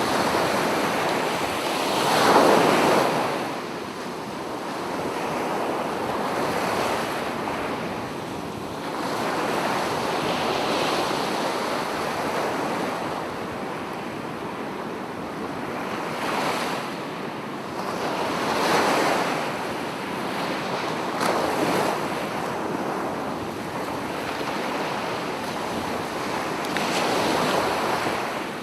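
Sea waves breaking on a beach, the surf swelling and washing back every few seconds, with the loudest break about two seconds in.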